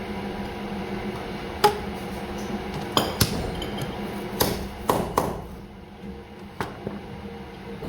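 Sharp metallic clinks and knocks, about seven of them, as steel shock-absorber parts are struck or handled in a workshop, over a steady machine hum that drops away about halfway through.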